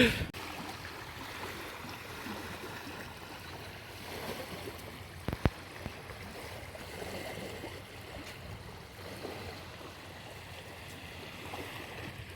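Water sloshing and splashing around a kayak as it is paddled, with one sharp knock about five seconds in.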